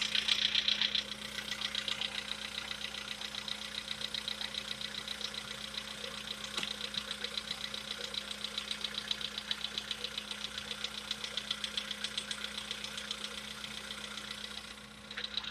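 Volkswagen Polo Sedan's 1.6-litre CFNA four-cylinder petrol engine running with a steady, rapid rhythmic knock, louder for about the first second. It is the engine knock that decarbonising is meant to cure.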